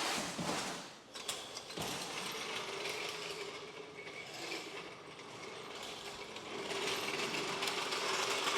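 Metal ratcheting: a fast, continuous run of clicks from a hand-worked ratchet mechanism, with a sharp knock about two seconds in.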